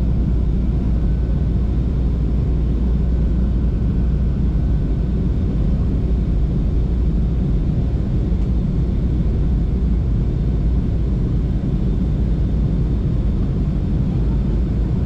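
Steady low rumble of a vehicle in motion, unbroken throughout.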